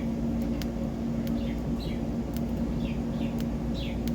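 Soft, short falling bird chirps, several scattered through, with sharp clicks of a cockatiel's beak cracking seed as it eats from a hand, over a steady low hum.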